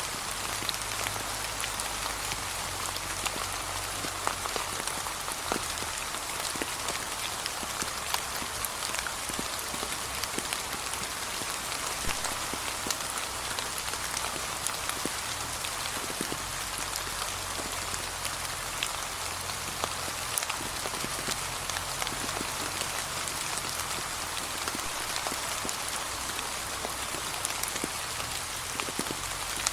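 Steady gentle rain, the hiss of the shower dotted with many small, separate drop ticks.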